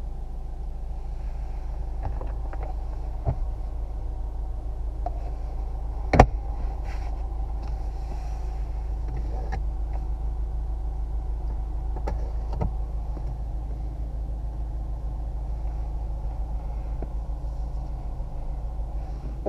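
Opel Insignia Country Tourer's 2.0-litre four-cylinder biturbo diesel idling, heard from inside the cabin as a steady low hum. A sharp knock comes about six seconds in, with a few lighter clicks around it.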